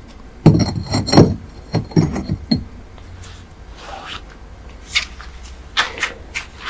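A quick run of hard knocks and clacks over the first two and a half seconds, then a quieter stretch with a few more knocks near the end.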